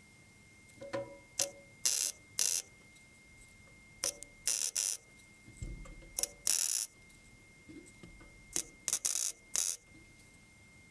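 MIG welder laying short stitch welds along a steel repair-patch seam on a classic Mini inner wing: about ten brief crackling bursts, each under a second, coming in groups of two or three a few seconds apart.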